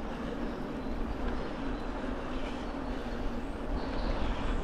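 Norco Storm mountain bike being ridden: a steady rolling rumble from the bike and its tyres on the trail.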